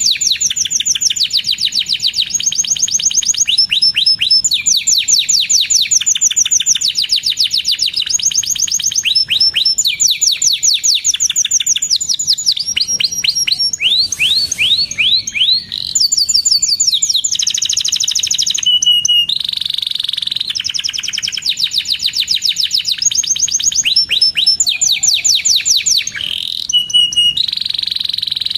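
Canary singing a long, unbroken song of rapid trills and fast-repeated chirping notes, with a couple of held whistled notes.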